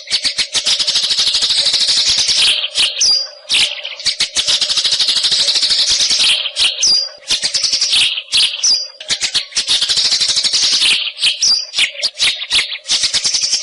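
White-rumped shama singing: long, very fast rattling chatters. Every few seconds they are broken by a short, high whistled note that drops in pitch.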